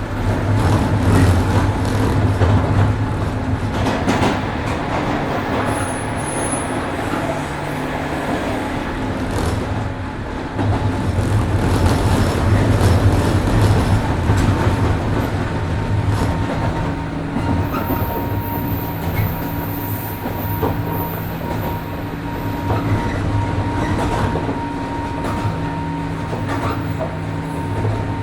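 103 series 1500-subseries electric train running: steady traction motor and gear hum with rail-joint clatter. A faint high wheel squeal comes in for a few seconds past the middle.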